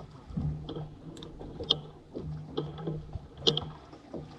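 A few sharp knocks and clatters aboard a fishing boat, the loudest about three and a half seconds in, over a low hum.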